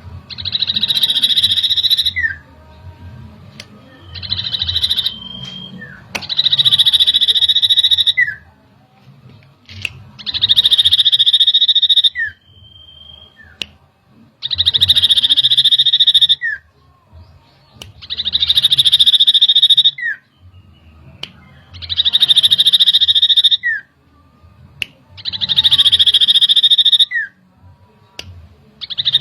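Iora (cipoh) calling: a fast, high trilling rattle about two seconds long, repeated about every four seconds, each ending with a short separate lower note.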